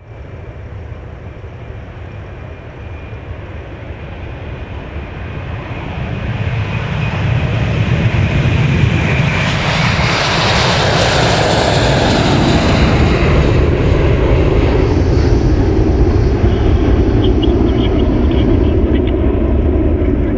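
Jet airliner's engines at takeoff power, growing louder over several seconds. A rushing hiss peaks about halfway through as the aircraft passes, then gives way to a heavy, steady low rumble.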